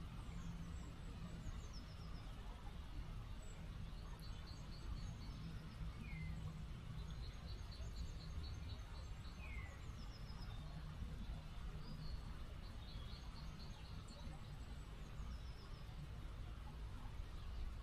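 Small river flowing steadily with a low, even rush of water. Several birds call over it: short rapid trills and quick falling notes, recurring every few seconds.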